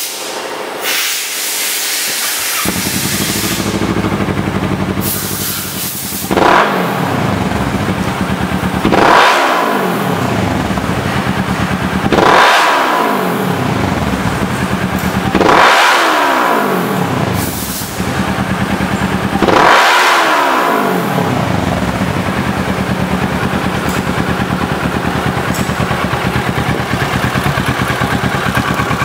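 Kawasaki ER-6n's parallel-twin engine through an AHM aftermarket exhaust. It starts up about two and a half seconds in, idles, is revved in five separate blips that each climb and fall back, then settles to a steady idle.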